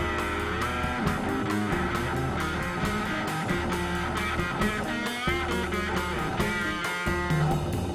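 Rock band playing an instrumental passage: electric guitar with bent notes over a bass line and a steady drum beat of about four hits a second.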